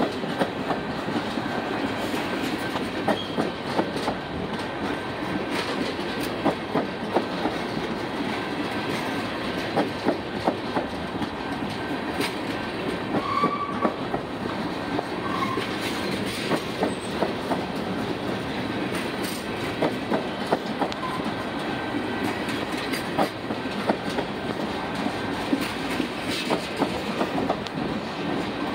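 Freight train of tank cars rolling past: steel wheels clicking over the rail joints over a steady rumble, with a couple of brief high squeaks about halfway through.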